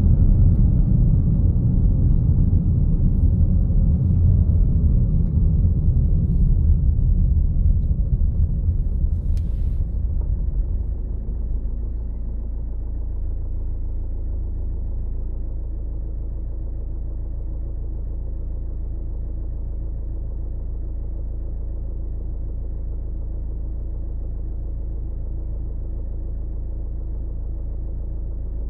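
Road vehicle driving, a deep engine and road rumble. About eleven seconds in it drops to a quieter, steady low drone.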